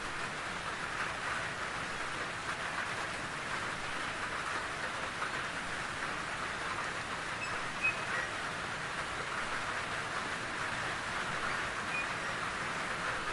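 Steady rain falling as an even hiss, with one brief louder tap about eight seconds in.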